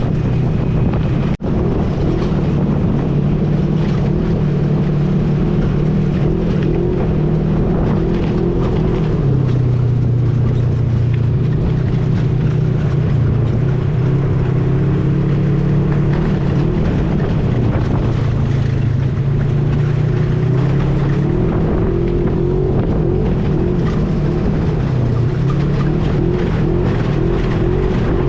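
ATV engine running while riding, its pitch rising and falling with the throttle, over a steady rush of noise. The sound cuts out for an instant about a second in.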